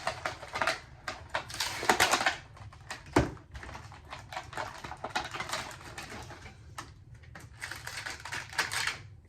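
Plastic toy packaging being handled and torn open: dense crinkling and clicking rustles, with a sharp knock about three seconds in.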